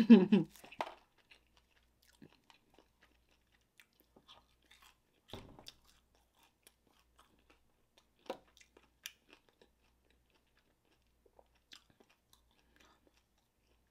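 Close-miked chewing of fried chicken wings: a few faint, sparse crunches and mouth clicks, the clearest about five, eight and nine seconds in.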